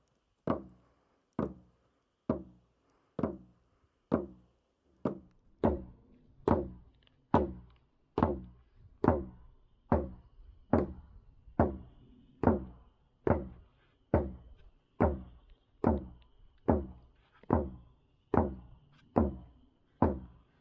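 Native American hand drums beaten in a slow, steady beat, a little faster than one stroke a second, each stroke ringing briefly.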